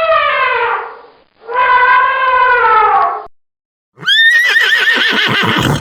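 Two long, horn-like calls that sag in pitch as they end, then, about four seconds in, a horse neighing: a high whinny that breaks into a quick, shaking, falling whinny.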